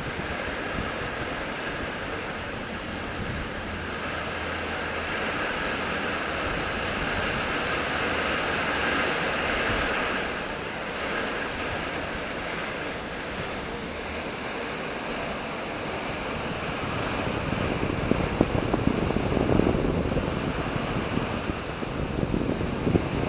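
Windstorm wind blowing hard and steadily, partly buffeting the microphone, with stronger, choppier gusts from about three-quarters of the way through.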